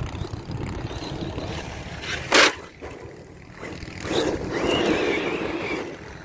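Electric RC monster truck (Team Associated Rival MT10) running over rough ground: tyre and drivetrain noise, a sharp loud knock of an impact about two and a half seconds in, then the motor whining up and back down as it accelerates near the end.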